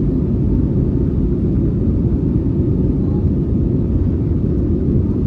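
Airbus A320neo jet engines at takeoff power: a loud, steady, deep rumble.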